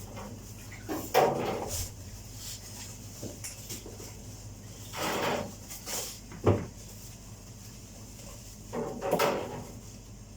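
Kitchen handling noises: a few short knocks and rustles, with one sharper knock about six and a half seconds in, over a steady low hum.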